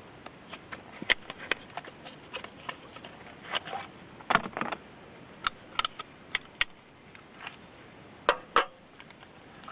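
Irregular clicks, taps and light knocks of small hard objects being handled, with two louder knocks close together near the end.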